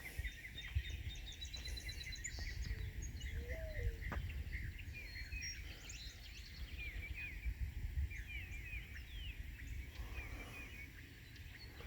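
Several songbirds chirping and singing in quick short calls and trills throughout, over a low, steady rumble.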